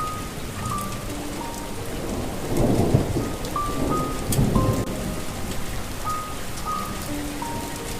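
Steady rain with thunder rumbling, swelling about three seconds in and again a second or so later, under a slow melody of single held notes.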